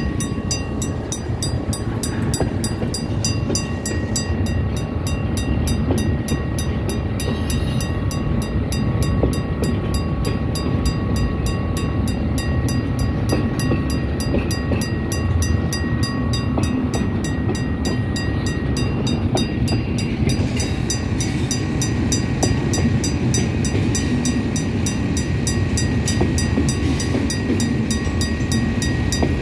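Container freight train passing at close range: a steady rumble of wheels on the rails, with a faint, thin, steady whine above it.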